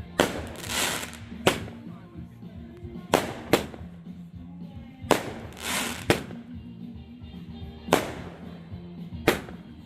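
Fireworks going off: about six sharp bangs at irregular spacing, and two crackling bursts that each last about a second.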